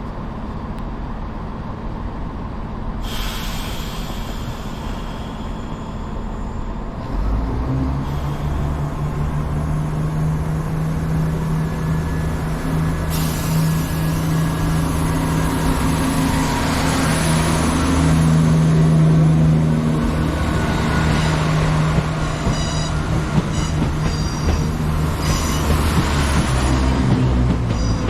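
Diesel train's engine opening up about seven seconds in, then running with a steady low note that grows louder as the train moves off. Brief high squeals from the wheels or brakes come a few seconds before the end.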